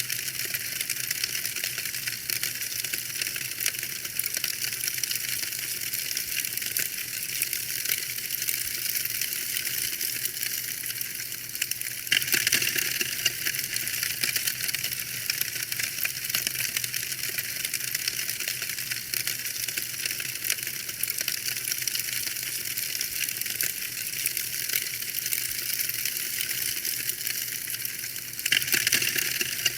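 Fireplace fire crackling steadily with dense, fine pops and snaps. The crackling gets louder about twelve seconds in and again near the end.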